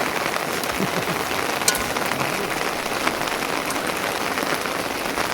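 Steady rain falling, a dense hiss scattered with small drop ticks, with one sharper tick a little under two seconds in.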